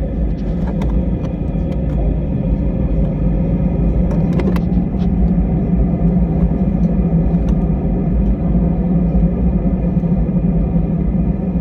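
Cabin noise inside an easyJet Airbus A320-family airliner: the jet engines and airframe make a steady, loud low rumble that grows slightly louder, with a few faint rattles and clicks.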